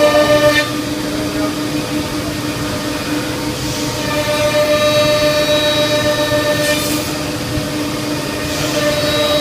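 C.R. Onsrud Panel Pro CNC router running, a steady whine made of several held tones over a noisy mechanical rush. It grows louder for a few seconds from about four seconds in and again near the end.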